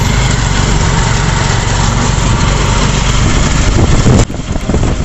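Motorcycle engine of a tricycle running loudly, heard from inside its sidecar with a steady haze of wind and road noise. About four seconds in, the sound drops suddenly to a quieter, uneven rumble.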